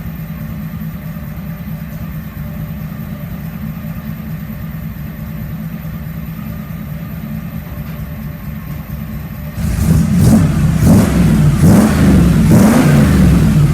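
Engine of a 1950 Ford rat rod truck idling low and steady while still cold, its idle turned way down. About nine and a half seconds in it is revved sharply three or four times in quick succession.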